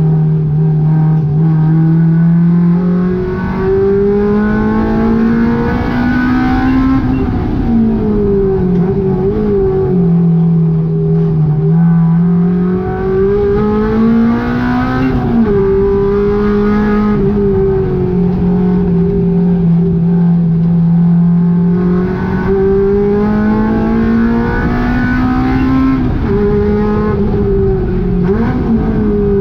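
Honda K20 inline-four engine in a VW GTI running hard on track. Its pitch climbs steadily through the revs and falls back sharply at gear changes or lifts, about five times.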